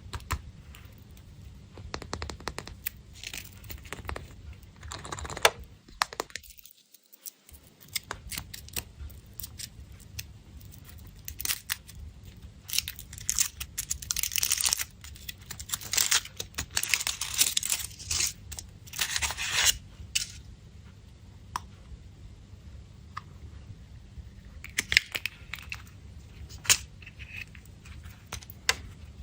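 Candy wrapper being torn open and crinkled by hand, in uneven bursts of tearing and crackling with sharp clicks between. It is busiest about halfway through, and goes briefly silent near a quarter of the way in.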